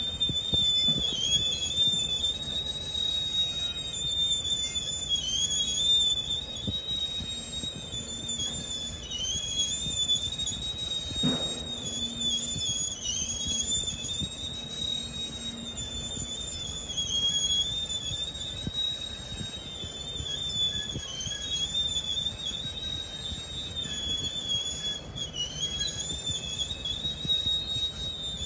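Freight train of autorack cars and flatcars rolling slowly past, its wheels squealing on the rail in a steady, high, slightly wavering tone over a low rumble. A single knock sounds about eleven seconds in.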